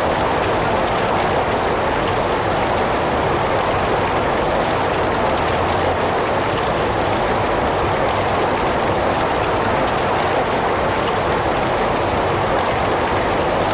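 Heavy rain falling steadily, a dense, even hiss with a full, mid-pitched body and no single drops standing out.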